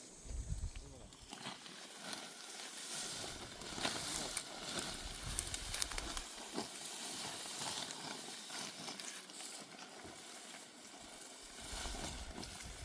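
Dry cereal stalks rustling and crackling as they are handled, a steady dry hiss with many small crackles.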